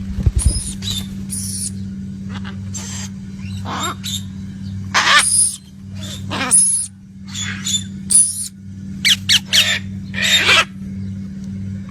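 Birds calling repeatedly in short, loud, harsh calls, with a quick run of three calls about nine seconds in, over a steady low hum.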